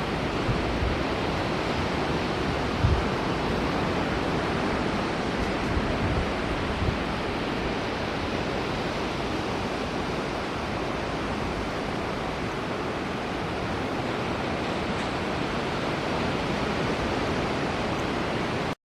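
Steady rushing of flowing river water, with a few low bumps in the first seven seconds.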